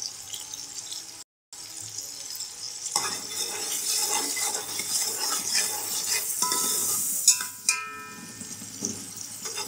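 Chopped tomatoes and spices sizzling in hot oil in a metal pot, stirred with a metal fork that scrapes against the pot; the sizzle grows louder from about three seconds in. A sharp knock of the utensil on the pot a little past seven seconds in, with brief metallic ringing around it.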